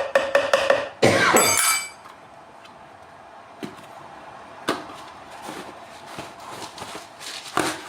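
Clinks and knocks of small hard parts being handled, with a loud rattling clink about a second in, then a few isolated taps.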